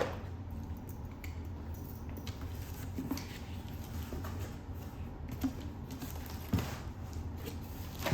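Cardboard boxes and packaging being handled and opened: scattered faint knocks and rustles over a steady low hum.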